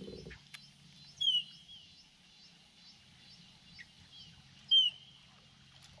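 A bird calling twice, about three and a half seconds apart, each a loud sharp note that dips in pitch, with a fainter high chirring running underneath.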